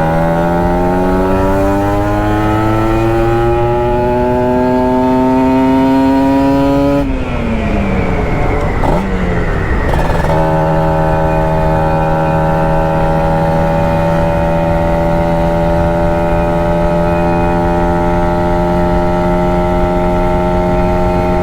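Kawasaki Ninja 150 RR's single-cylinder two-stroke engine and exhaust under way: the engine note climbs steadily under throttle for about seven seconds, drops away sharply as the throttle closes, then holds a steady pitch at cruising revs.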